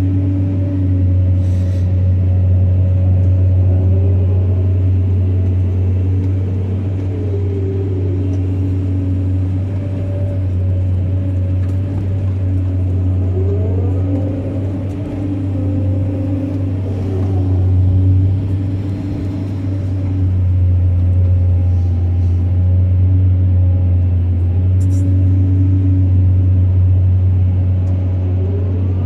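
Diesel engine of heavy earthmoving machinery running steadily with a low drone. Higher tones rise and fall over it now and then.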